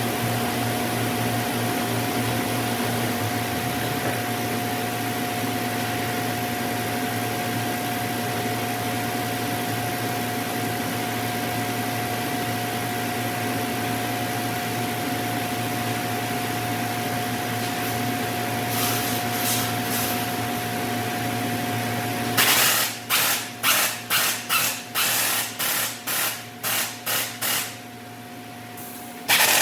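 Workshop machinery: a steady motor hum that stops about 22 seconds in, followed by a quick string of short, sharp mechanical bursts, about two a second.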